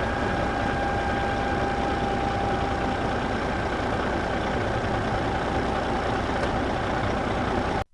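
A truck-like engine running steadily at idle, with a faint whistling tone that fades out about six seconds in; it cuts off abruptly just before the end.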